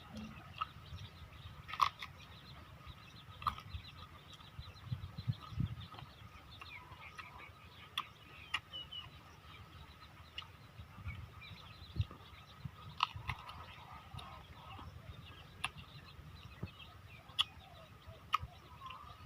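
Mouth noises of someone eating ripe mango: wet smacks and clicks every second or two, with chickens and other birds calling in the background.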